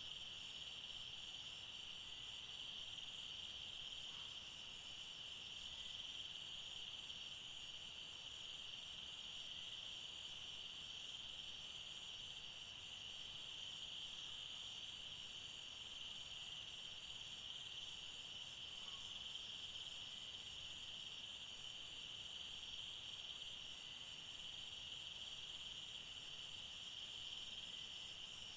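A chorus of forest insects: a steady, unbroken high buzz with a faster pulsing trill above it. A few brief, even higher buzzes come and go, one a couple of seconds in, one about halfway, and one near the end.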